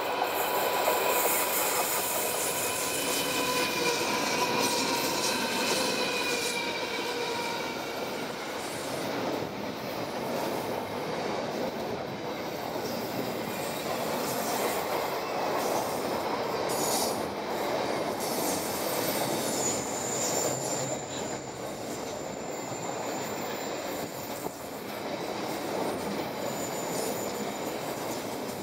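Diesel-electric freight locomotive passing with its engine running, then a long train of container wagons rolling by with steady wheel rumble on the rails. A thin high wheel squeal comes in over the rolling noise in the second half as the wagons take the curve.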